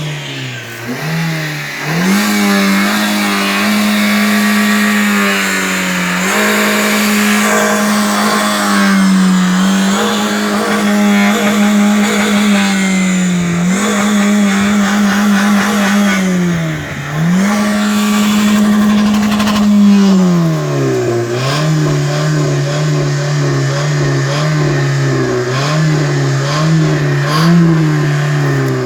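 Car engine revved hard with the accelerator floored, held flat at high revs for several seconds at a time with brief dips as the pedal is let up and pressed again. About two-thirds of the way through it drops to a lower, wavering rev level.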